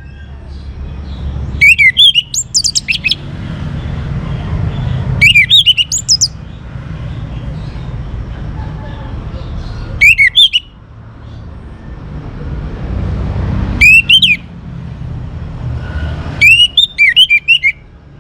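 Young orange-headed thrush singing in short bursts of quick, looping whistled notes, five phrases a few seconds apart. A steady low rumble fills the gaps between phrases.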